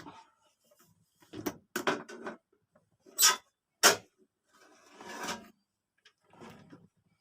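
Knocks, clicks and scrapes of a bread maker's unscrewed casing panel being worked loose and lifted off, with two sharp knocks about three and four seconds in and a longer scrape just after.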